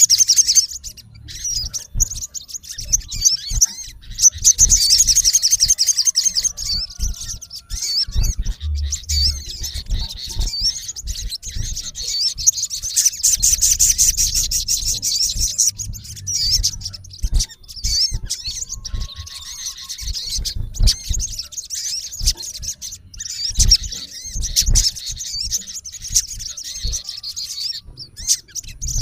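Male olive-backed sunbird giving a rival-challenging call: rapid, high-pitched chirping trills in long runs broken by short pauses. Low thumps and rumbles sit underneath.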